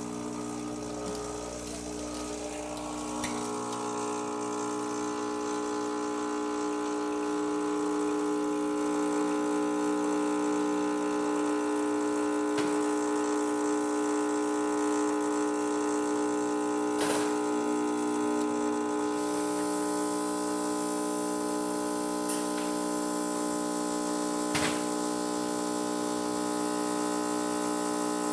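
Rancilio Silvia espresso machine's vibratory pump buzzing steadily while pulling an espresso shot. The buzz changes and grows louder over the first few seconds as pressure builds against the puck, and a few short clicks sound in the second half.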